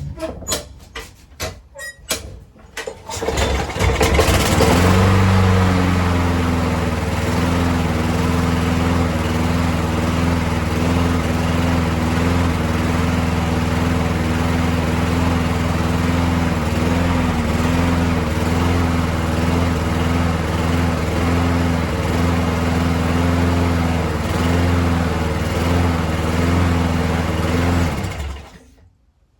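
Craftsman push mower's 6.7 hp Briggs & Stratton single-cylinder engine, its carburetor freshly cleaned, being pull-started after priming: a few short pulls on the recoil cord, then it catches about four seconds in and runs steadily for over twenty seconds before shutting off near the end.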